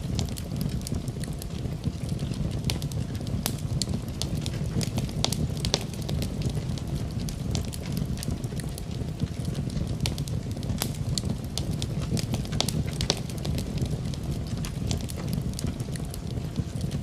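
Wood fire in a fireplace crackling, with frequent irregular pops and snaps over a steady low rumble of burning.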